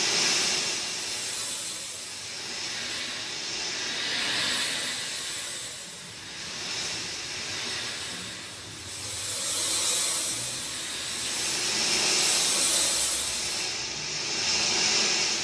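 Steady heavy rain falling: a dense hiss that swells and eases every few seconds.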